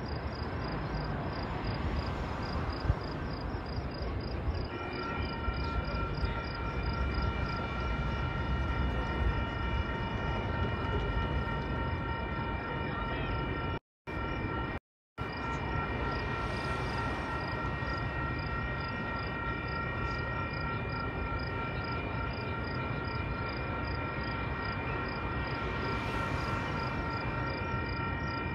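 Distant Metra commuter train approaching: a steady low rumble. About five seconds in, a steady high hum of several tones joins it and holds to the end, over a faint regular high ticking.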